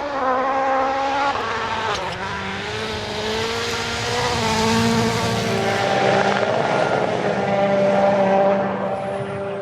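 A rally car's engine running hard at high revs. Its pitch climbs, then drops and picks up again with gear changes several times, over a steady hiss.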